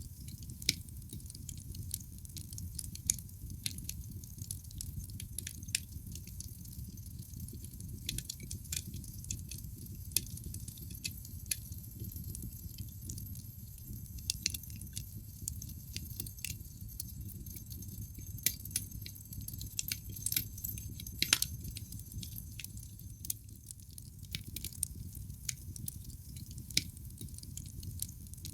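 Wood logs burning in a fireplace, crackling and popping at irregular intervals over a low steady rumble of the fire. One louder pop comes about three quarters of the way through.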